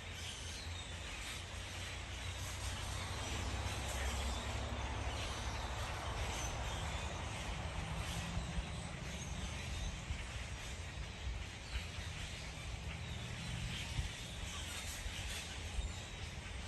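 Outdoor ambience: a steady low rumble under an even background hiss, with a few faint, brief bird chirps now and then.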